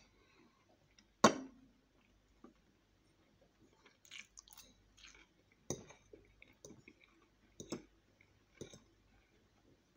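Close-up chewing of spaghetti and smoked pork fat, with a few sharp clinks of a metal fork against a ceramic plate, the loudest about a second in with a short ring after it.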